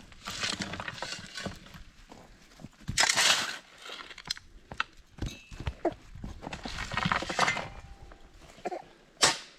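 Shovel scraping and dumping loose dirt and gravel back into a hole, several irregular scoops, with a sharp knock near the end.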